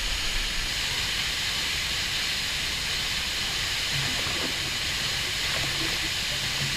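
Waterfall pouring, a steady rushing hiss of falling water.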